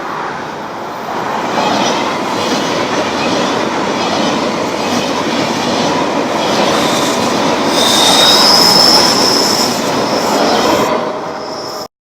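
Train running past on the rails, its noise building over the first couple of seconds, with high-pitched wheel squeal about eight seconds in. The sound cuts off suddenly near the end.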